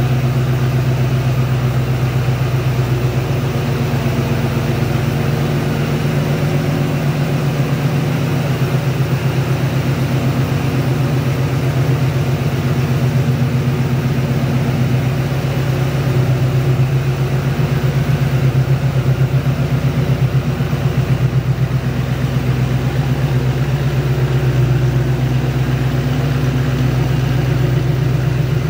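1966 Ford Mustang's 289 two-barrel V8 idling steadily through its dual exhaust, a low, even pulse.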